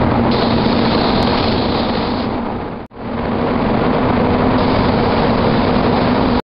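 Steady, loud spray-booth noise of a car being spray-painted: an even rush of air with a constant low hum. It dips out and back in about three seconds in, then cuts off suddenly near the end.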